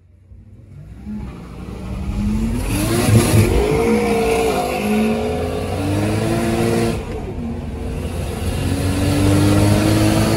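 Car engine accelerating hard, revving up and dropping in pitch at two gear changes. It grows from faint to loud as the car comes nearer.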